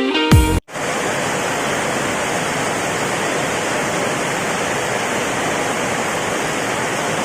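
Steady hiss of heavy rain falling, an even unbroken wash of noise, after an electronic music intro cuts off in the first moment.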